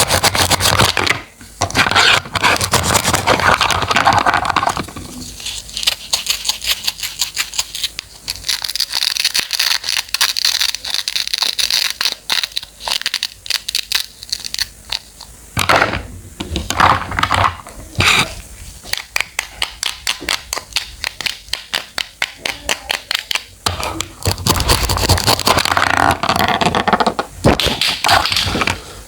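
Knife cutting through crisp fruit and vegetables: a run of short crunching, scraping cuts, with stretches of quick repeated slicing strokes.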